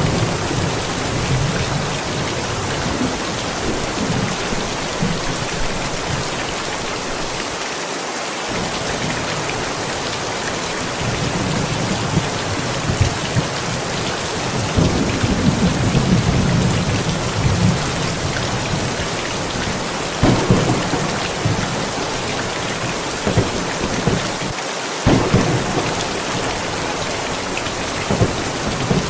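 Steady rain during a thunderstorm, with thunder rumbling through the middle and two sharp cracks of thunder about twenty and twenty-five seconds in.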